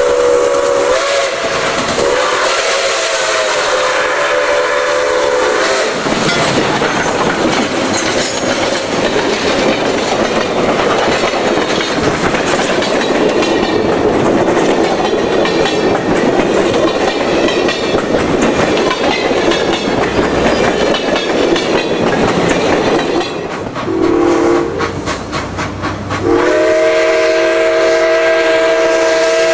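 Steam locomotive whistle blowing a long multi-note chord, then the passing train's rushing, hissing noise with wheels clicking over the rails, then the whistle again, a short blast and a long one near the end.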